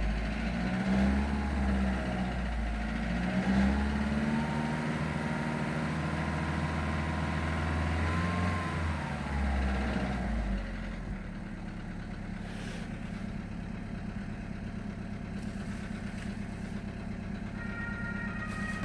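Audi A2's 1.4-litre BBY four-cylinder petrol engine, running on LPG, held at raised revs with the pitch rising and falling, then dropping back to a steady idle about eleven seconds in. The engine has about 350,000 km on it and the owner is asking what problems it might have.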